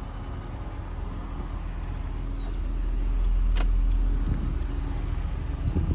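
1990 Toyota Sera's 1.5-litre four-cylinder engine running at idle, a steady low rumble that swells louder through the middle and settles back. A sharp click about three and a half seconds in.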